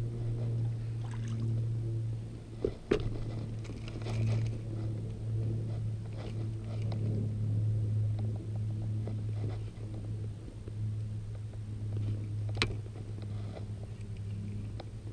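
A steady low hum, with sharp clicks or knocks about three seconds in and again near the end.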